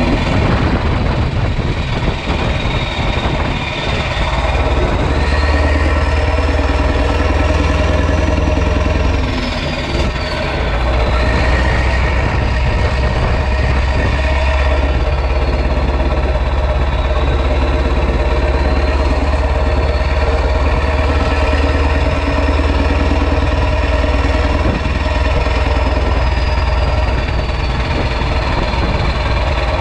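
Renault Magnum's 16.4-litre Mack E9 V8 diesel running loud through an open exhaust, with a high turbo whistle that rises and falls in pitch twice. The engine sound dips briefly about four and ten seconds in.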